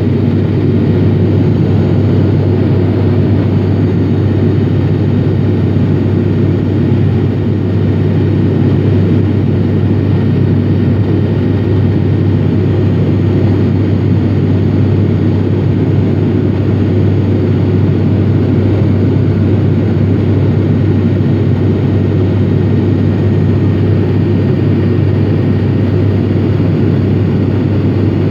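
ATR72-500 turboprop cabin noise in flight: the Pratt & Whitney PW127 engines and propellers make a loud, steady low drone with a constant deep hum, unchanged throughout.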